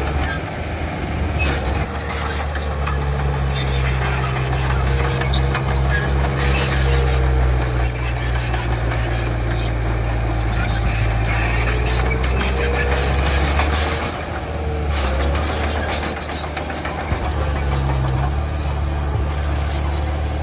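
Komatsu D31 bulldozer's diesel engine running under load, its pitch stepping up about three seconds in and dropping back a few seconds before the end, with a faint wavering squeal and scattered knocks over it.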